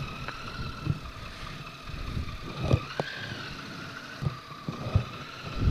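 Motorcycle engine running while riding, a steady whine that rises briefly about halfway through and settles again, with a few dull thumps.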